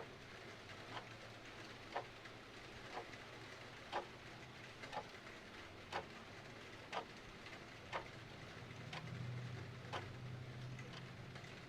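Clock ticking once a second, alternating a louder tick and a softer tock, over a steady hiss of rain. A low rumble swells in near the end.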